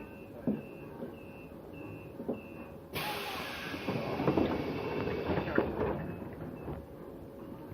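Passenger train's door-closing warning: five short high beeps about half a second apart, then a sudden loud hiss of compressed air with knocks, lasting about three seconds, as the pneumatic doors close.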